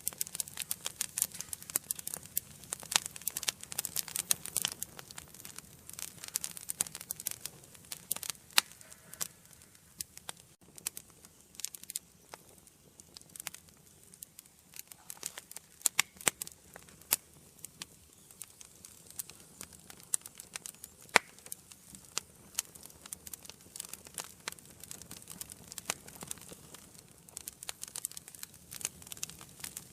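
Wood fire burning in a fireplace: irregular crackling and sharp pops over a soft hiss, busier at first and again near the end, with a few louder snaps.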